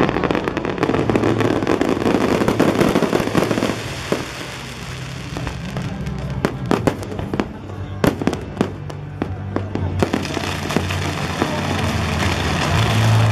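Aerial fireworks bursting over music played for the display. A dense crackle of many small bursts fills about the first four seconds, followed by a string of separate sharp bangs.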